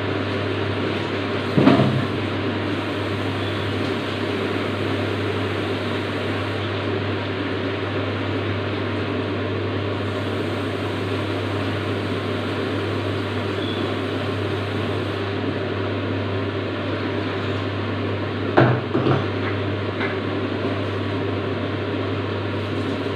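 Steady whirring kitchen hum with a low drone. A metal utensil clunks twice against the cooking pot, about two seconds in and again near the end.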